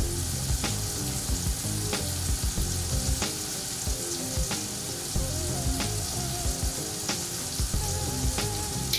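Seared sea scallops sizzling steadily in a skillet on residual heat after the burner has been turned off, so the sizzle is dying down.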